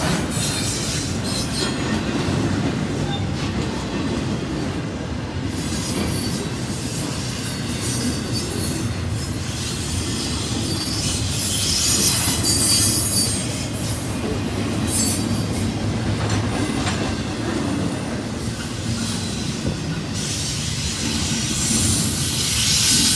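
Double-stack intermodal freight cars rolling past on the rails: a steady rumble of wheels and cars, with high-pitched wheel squeal coming and going. It swells about halfway through and rises again near the end as the last car passes.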